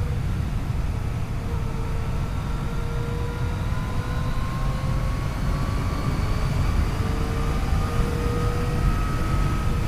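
Yamaha FJ-09's 847 cc three-cylinder engine running under way, its pitch climbing slowly as the bike gathers speed, under a heavy wind rumble on the microphone.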